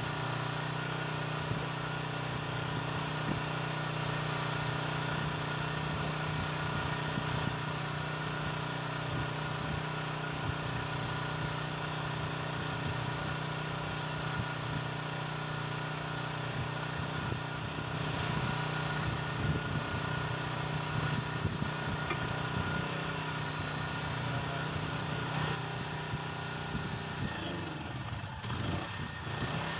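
Boat engine running steadily at a constant pitch, with a brief wavering in pitch near the end.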